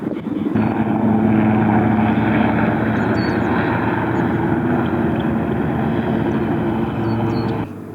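An engine running with a steady drone that cuts off suddenly near the end.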